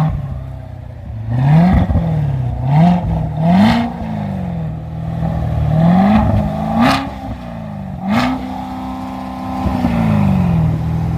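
2019 Corvette Stingray's 6.2-litre LT1 V8 revved in park: a string of quick blips rising and falling in pitch, with a few sharp cracks from the exhaust. Near the end it is held at higher revs for about two seconds, then drops back toward idle.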